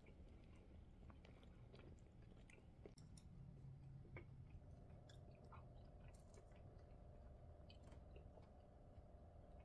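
Faint close-up chewing of soft, cream-filled French toast, with light scattered clicks. About halfway through, a faint steady hum sets in.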